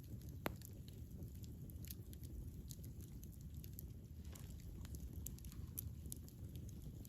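Wood campfire burning with a steady low rumble and frequent irregular crackles and pops, one sharper snap about half a second in.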